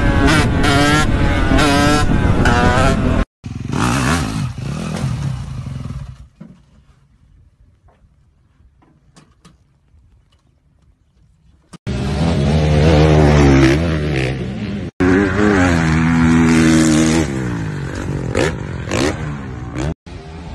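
Motorcycle engines in a string of short clips. A supermoto's engine revs up in steps through the gears during a wheelie. After a cut comes fading noise, then a quiet stretch with a few faint clicks, then an engine revving hard with its pitch dropping and climbing, followed by more engine noise.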